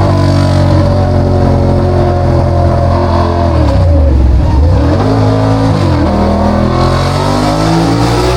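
Ducati Diavel 1200's L-twin engine running loud through a straight-through (straight-piped) exhaust. About halfway through, the revs drop and then climb back up.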